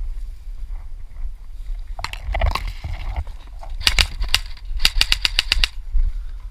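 Airsoft guns firing single semi-automatic shots: a few sharp shots about four seconds in, then a quick string of about eight shots in under a second.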